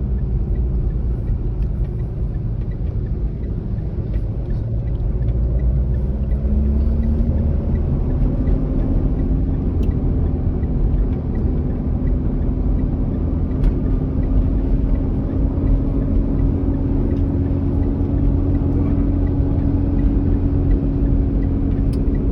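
Manual-transmission car driving along, a steady low engine and road rumble. The engine note rises about six to eight seconds in and then holds steady.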